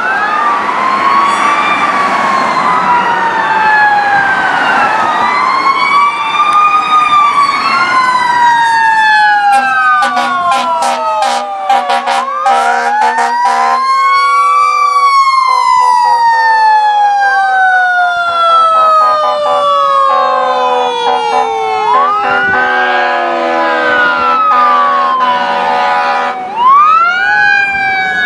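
Fire apparatus sirens sounding while responding: at first two sirens wail over each other, then a siren repeatedly winds up quickly and coasts slowly down in long falling glides. Steady horn blasts come through around the middle.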